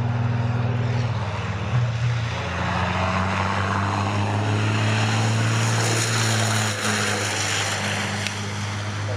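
Racing trucks' big diesel engines running hard on track, a loud steady low drone that shifts pitch a couple of times as they change gear or pass.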